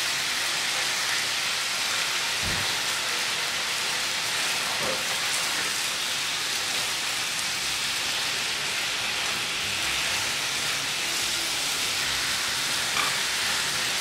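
Chicken pieces frying in hot oil in a frying pan, a steady sizzle, as they are turned with a slotted metal spatula; one low knock about two and a half seconds in.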